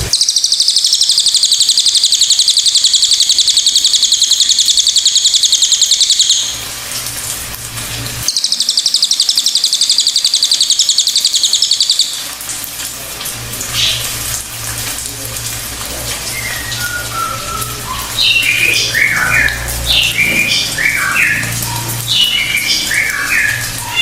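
Cililin bird singing. It gives a long, very rapid, high buzzing trill, then after a short break a second one. These are followed by a run of varied short whistled notes and quick chattering phrases, with a low steady hum in the background.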